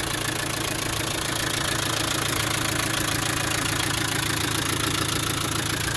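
Land Rover 300Tdi 2.5-litre four-cylinder turbodiesel idling steadily when warm, running normally with no fault.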